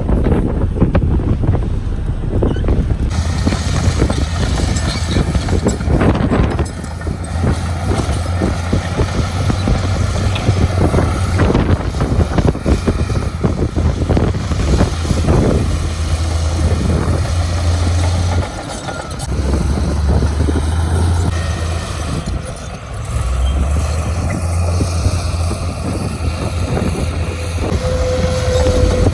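Heavy diesel construction machinery running at a worksite, a steady low engine drone that dips briefly twice, with wind noise on the microphone.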